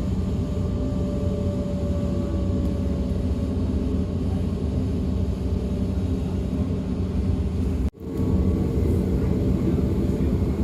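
DB class 425 electric multiple unit running along the line, heard from inside: a steady rumble of wheels and track with a faint whine from the traction equipment that drifts slowly in pitch. The sound drops out briefly about eight seconds in, then carries on.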